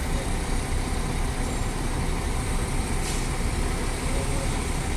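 Buses idling at a stop, a steady low engine rumble with traffic noise.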